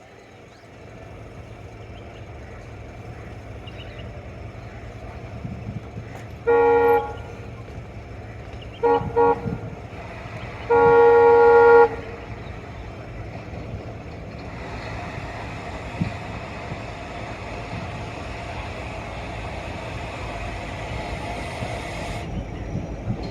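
Diesel locomotive horn sounded from a moving train: a short blast, then two quick toots, then a longer blast of about a second, over the steady running noise of the train. Later a steady hiss comes in and cuts off suddenly.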